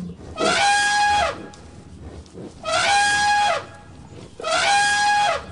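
Elephant trumpeting three times, each call about a second long on a steady high pitch, with short pauses between.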